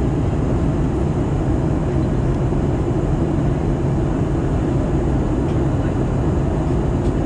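Steady cabin noise of an Airbus A320-214 in flight on descent: airflow and CFM56 turbofan engines, an even low rush with no changes.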